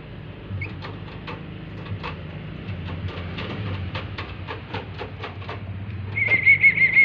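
Black-capped lory making scattered light clicks and taps, then a loud, fast warbling whistle at one high pitch starting near the end.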